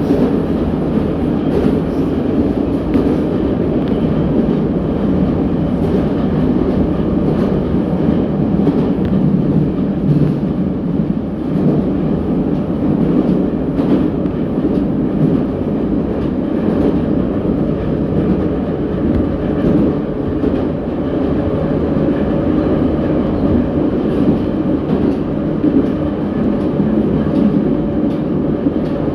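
Interior running noise of an 81-717.6 metro train under way between stations: a steady heavy rumble of wheels on rail with light clickety-clack of rail joints.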